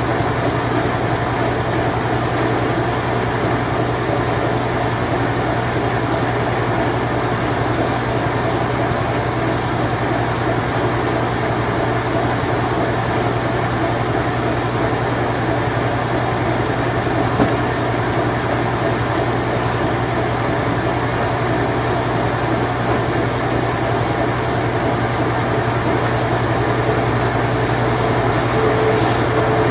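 Late-1980s Whirlpool Imperial Clean Touch washing machine on its spin cycle: a steady motor hum and whir of the spinning drum, with one light click about 17 seconds in.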